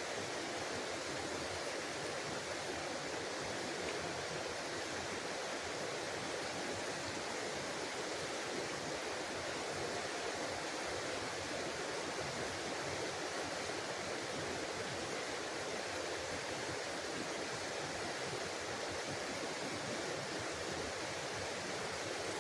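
Small forest creek running: a steady, even rush of flowing water.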